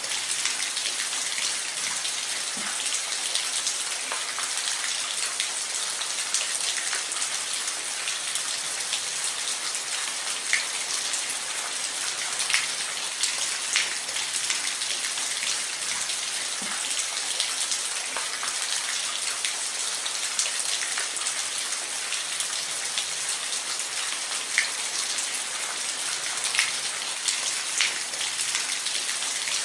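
Steady rain falling on a roof: an even hiss with scattered sharper drops ticking through it.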